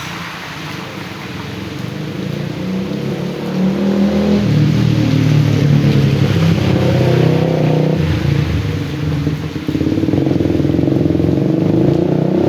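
Motor vehicle engine running close by, growing much louder about four seconds in, dipping briefly near ten seconds, then picking up again.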